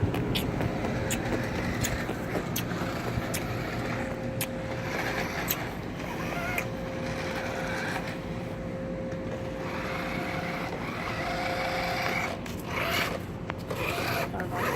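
A vehicle running with a steady low rumble and a steady hum, with a few small clicks.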